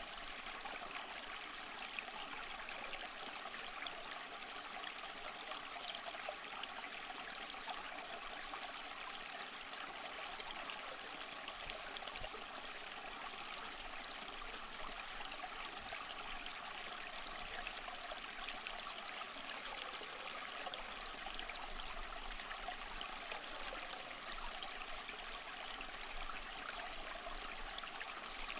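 A stream of running water, trickling and splashing steadily.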